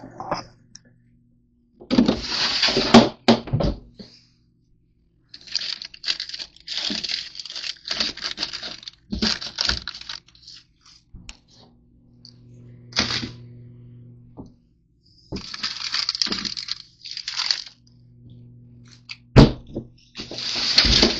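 Crinkling and tearing of granola bar wrappers in repeated bursts, with a few sharp knocks, over a faint steady low hum.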